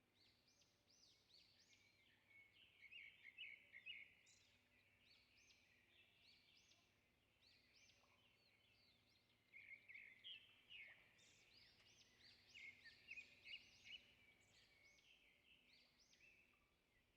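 Faint birdsong: several small birds chirping and twittering in quick, dense runs, loudest a few seconds in and again past the middle, over a faint steady hum.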